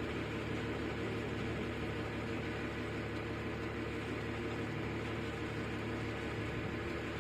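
Boat engine running steadily: a low, even drone with a constant hum.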